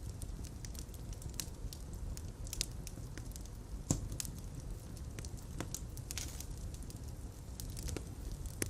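Fire crackling in a fireplace: a steady low rumble of flames with irregular sharp pops and snaps, one louder pop about four seconds in.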